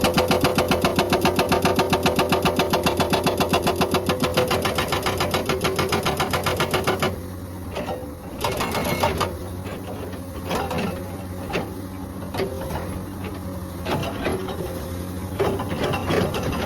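Hydraulic breaker on a Komatsu excavator hammering rock in rapid, even blows, several a second, stopping about seven seconds in. The excavator's engine keeps running afterwards, with scattered knocks.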